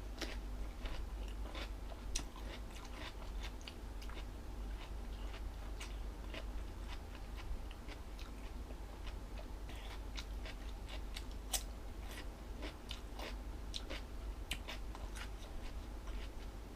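A person chewing crunchy jellyfish salad, with many small crisp crunches scattered through, over a steady low hum.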